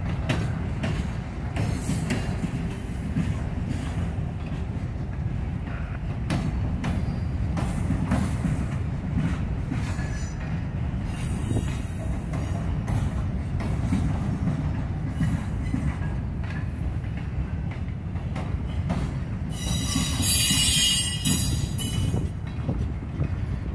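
Freight train cars rolling past with a steady low rumble of wheels on the rails and scattered clicks. The wheels squeal high about halfway through, then louder for a couple of seconds shortly before the end.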